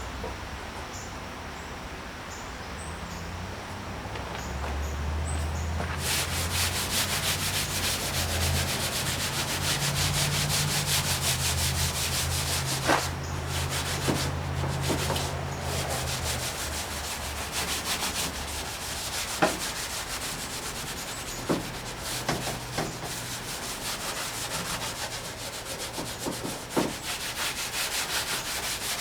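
Continuous abrasive rubbing on the 1959 VW single cab truck's painted sheet metal, working the paint back to uncover the old patina. The rubbing grows louder and denser a few seconds in, with a few sharp knocks along the way.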